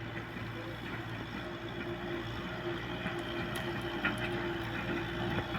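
Kubota M6040S tractor's diesel engine running steadily under load while ploughing, with a few short knocks about three to four seconds in.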